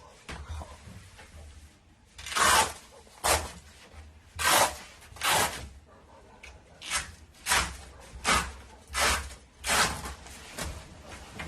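A series of about ten short, scratchy noises, each under half a second, coming at irregular intervals.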